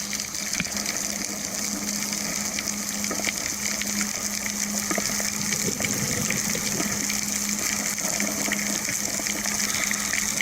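Underwater crackling: a dense, steady field of tiny clicks from small shrimp with pincers snapping, heard through the water with a wash of hiss and a steady low hum.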